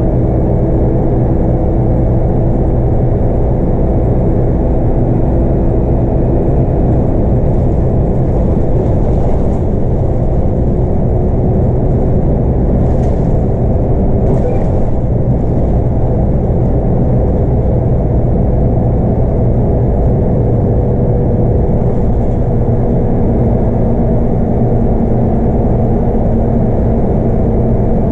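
Scania K230UB bus's 8.9-litre five-cylinder Scania DC9 diesel engine and road noise heard from inside the bus, running steadily with a dense low rumble and engine tones that drift only slowly in pitch.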